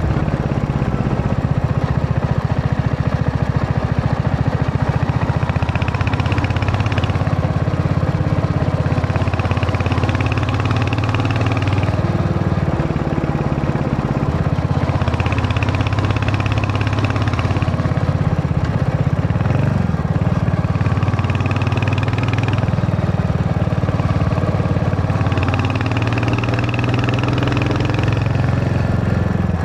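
Royal Enfield Hunter 350's single-cylinder engine running under way, its pitch rising and falling with throttle and gear changes.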